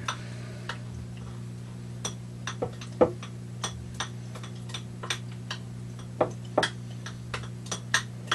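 Irregular light clicks and taps of a small utensil against containers, over a steady low hum.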